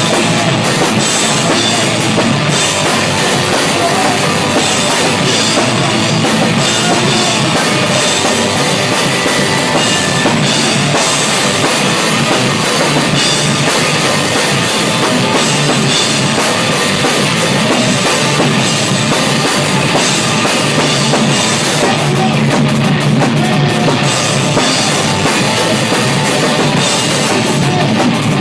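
Rock band playing loud and continuously at rehearsal, raw and unmixed, heard from right beside the drum kit: the drums dominate, with guitar underneath and little deep bass.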